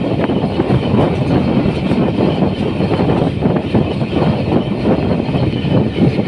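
Musa Pak Express passenger train rolling on the track: a loud steady rumble with dense rattling of wheels and coaches on the rails.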